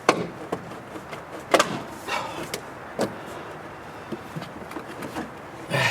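Plastic parts clunking and creaking as a van's air filter housing is worked loose from its rubber grommets. About five separate knocks and creaks.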